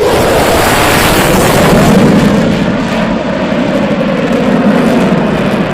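F-15 Eagle fighter's twin jet engines in full afterburner during a climbing takeoff: a loud, continuous roar whose pitch sinks slowly, loudest about two seconds in.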